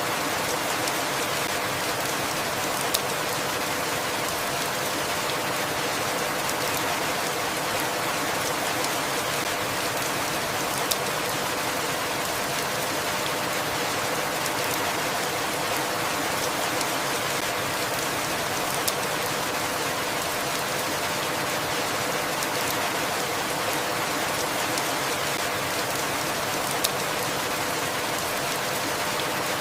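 Steady rain falling, an even hiss, with a single sharp tick about every eight seconds.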